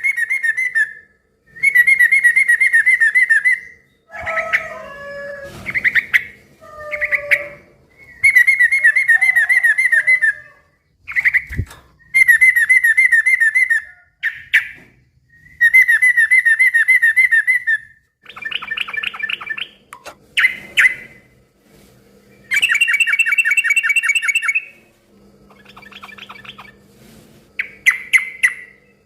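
Yellow-vented bulbul (trucukan) singing noisily: loud, rapid chattering phrases about one to two seconds long, repeated over and over with short pauses. Lower, gliding calls fall between the phrases a few seconds in.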